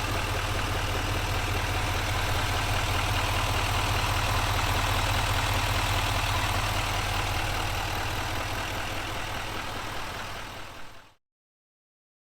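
Turbodiesel V8 idling steadily with a deep, even hum. It fades out over the last few seconds and cuts off abruptly.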